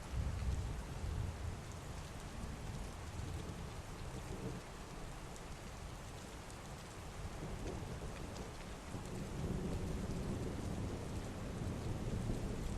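Heavy rain falling steadily with thunder rumbling low underneath, strongest in the first couple of seconds and building again near the end.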